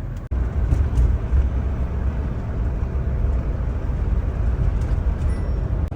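Steady low road and engine rumble of a motorhome on the move, heard from inside the cab. The sound drops out for an instant just after the start.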